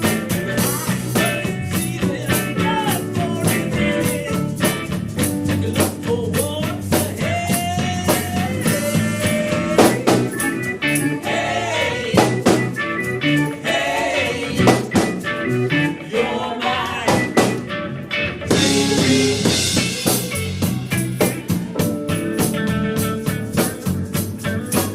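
Live band playing a song with drum kit and guitar, with singing over it.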